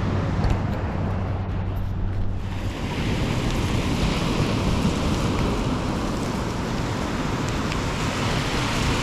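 Sea surf washing steadily with wind buffeting the microphone; a low steady hum sounds under it for the first few seconds and then stops.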